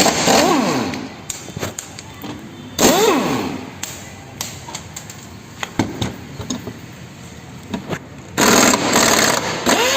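An impact wrench spins bolts out of a car's underbody cover in three bursts: one at the start, one about three seconds in and a longer one near the end. In the first two the motor's pitch rises and then falls.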